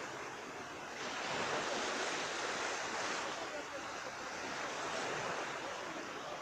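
Calm sea surf washing onto the beach: a steady hiss of small waves that swells and eases gently.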